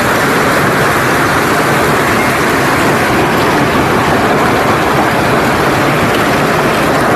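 Strong wind blowing as a loud, steady rushing noise.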